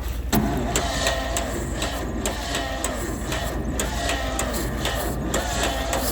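Electric starter cranking the John Deere A's two-cylinder engine on a cold start, the engine turning over with an even pulse of about two to three beats a second and a steady starter whine but not catching. The owner takes it to be sounding flooded.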